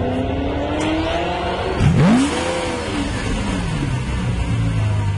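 Lamborghini Aventador's 6.5-litre V12 engine and exhaust, its pitch climbing, then a sharp rev surge about two seconds in that is the loudest moment. The revs then fall away and settle into a low steady rumble.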